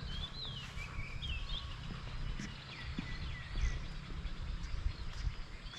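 A bird singing outdoors in a string of short, sliding whistled phrases, over a low steady rumble.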